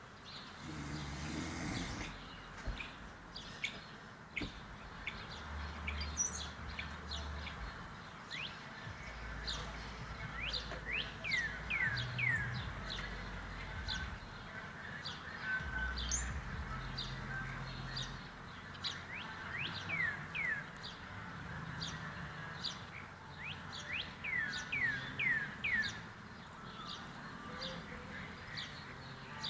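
Birds chirping: a steady run of short, quick downward-sweeping chirps, sparse at first and coming thicker and faster in the second half.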